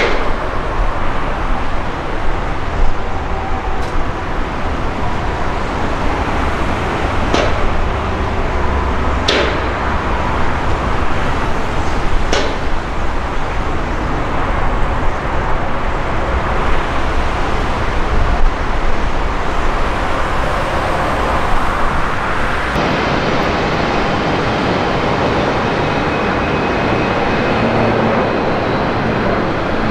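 Jet airliner engines running as a loud, steady rush with a deep fluctuating rumble, wind buffeting the microphone. The sound changes abruptly about 23 seconds in, where the footage cuts to another aircraft.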